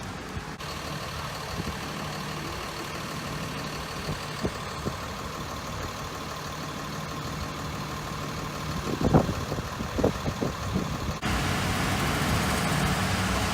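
Motor vehicle engine idling steadily, with a few knocks about nine seconds in; near the end the background becomes louder and noisier.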